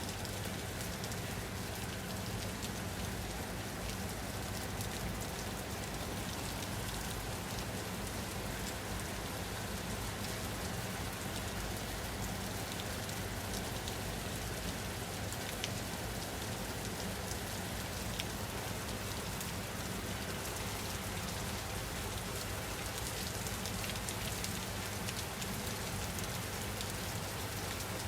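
Steady rain falling on a surface, an even hiss with the patter of individual drops, unchanging throughout.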